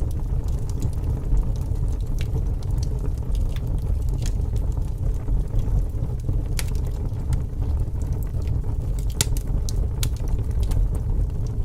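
Fire crackling: a steady low rumble with scattered sharp pops and snaps, a few louder snaps in the second half.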